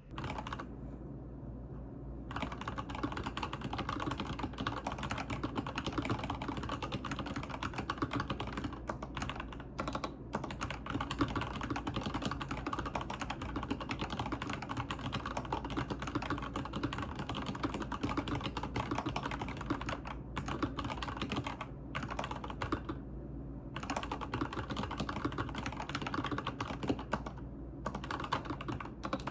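Fast, continuous typing on a computer keyboard, with a few brief pauses.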